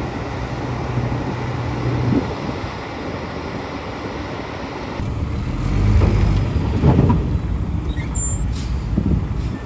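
Heavy diesel construction machinery running with a steady low rumble; about six seconds in it grows louder and rougher for a second or two, and brief faint high squeaks come near the end.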